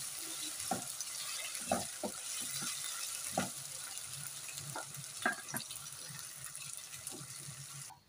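Onions and whole spices sizzling in hot oil in a nonstick wok, with a spatula stirring and scraping against the pan now and then. The sizzle cuts off suddenly near the end.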